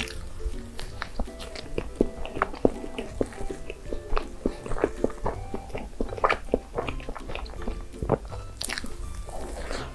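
Close-miked eating sounds: a person biting and chewing cake, with many short mouth clicks throughout and a louder burst of noise near the end.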